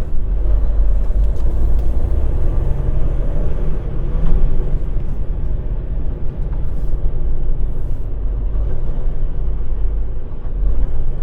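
Semi-truck diesel engine running as the tractor-trailer drives, heard from inside the cab as a steady low drone, its note rising slightly a few seconds in.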